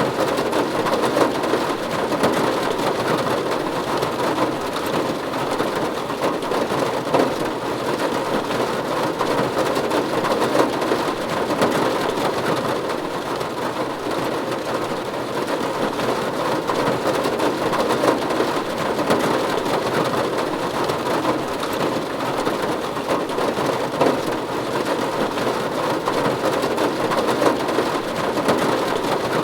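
Steady rain falling on a roof: a dense, even patter with scattered sharper drop hits.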